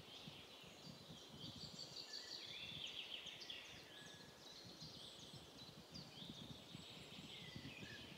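Faint birdsong: many short chirps and trills overlapping, over a faint low background noise.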